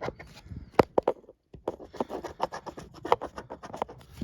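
Scratching the coating off a scratch-off lottery ticket in quick, rasping strokes, with a short pause about a second and a half in.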